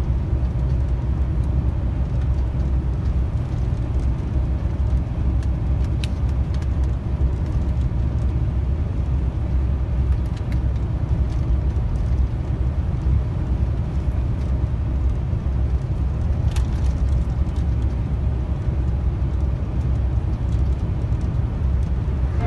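Steady engine and road rumble inside a long-haul truck's cab while driving on the highway, with a couple of faint clicks.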